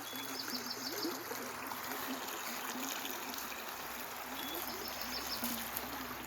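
Steady trickle of a small stream, with a bird singing a short phrase twice: one brief note, then a quick run of about five notes.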